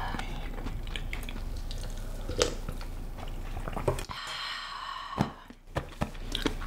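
Close-miked chewing of a mouthful of mala tang, soft and wet, with scattered mouth clicks.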